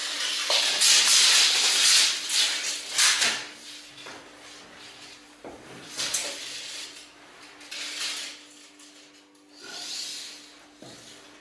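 Steel tape measure being drawn out and handled: a long dry hissing slide over the first three seconds, then several shorter rubs and scrapes.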